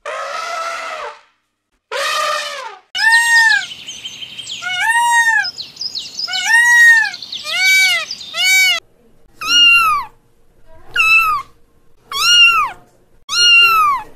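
Elephant trumpeting twice. Then peacock calls, a quick run of rising-and-falling cries. From about halfway in, kittens meowing, a high meow every second and a half or so.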